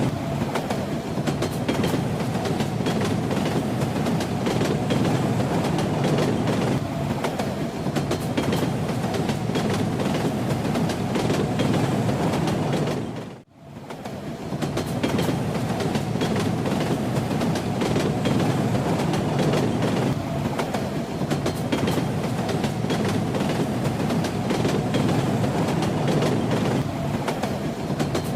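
A moving train running steadily, with the rumble of the carriages and the clatter of wheels over rail joints. About halfway through, the sound briefly fades out and back in.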